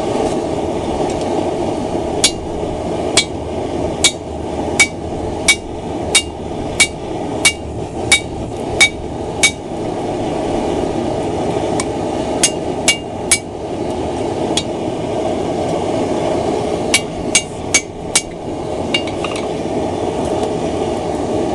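Light to medium hand-hammer blows on hot steel over an anvil, each with a short metallic ring: a steady run of about eleven strikes, then three quick ones and later four quick ones. These are forge-welding blows that set the weld on the camp axe billet. Under them runs the steady roar of the forge.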